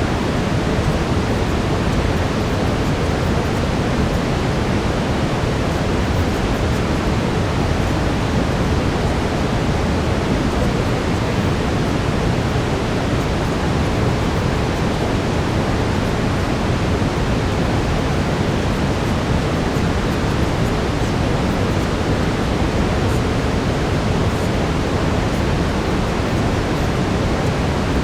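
Steady brown noise: an even, unchanging rushing hiss weighted to the deep end, used as a sleep and relaxation masking sound.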